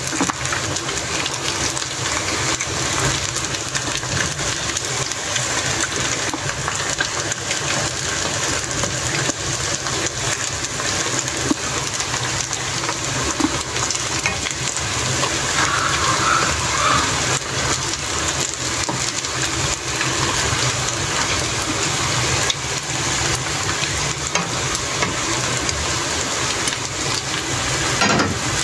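Coated chicken necks deep-frying in hot oil in a pan, a steady sizzle with fine crackling throughout. This is their second fry, to make them crunchy.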